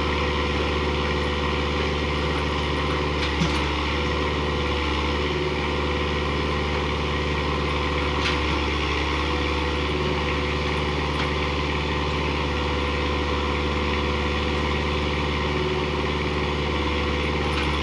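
Diesel engine of a JCB 4x4 tractor running steadily at an even speed, a deep drone with no revving. A single short click sounds a few seconds in.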